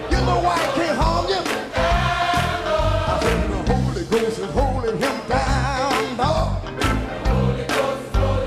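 Gospel music: voices singing long, wavering notes over a steady drumbeat and bass.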